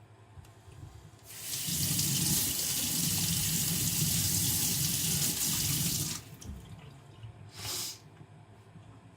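Water running from a tap for about five seconds, a steady hiss that stops suddenly, followed by a short second burst of hiss near the end.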